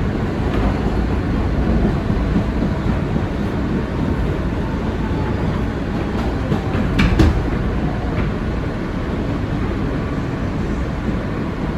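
Steady rumble of an R160B Siemens subway car running between stations, heard from inside the car, with wheel and track noise. There is a sharp clack about seven seconds in.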